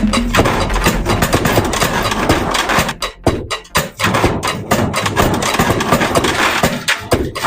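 Harsh experimental noise music: a dense, loud wall of grinding noise, cut by short stuttering dropouts, with a deeper break about three seconds in.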